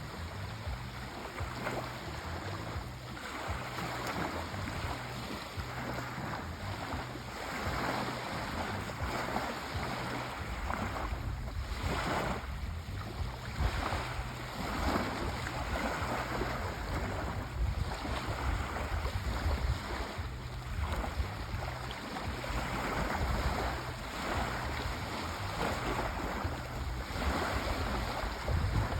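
Sea waves breaking and washing ashore in repeated surges a few seconds apart, over a steady low rumble that grows stronger about a third of the way in.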